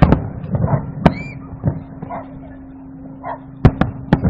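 Aerial fireworks bursting in a string of sharp bangs: a pair near the start, one about a second in, and a quick cluster of three near the end.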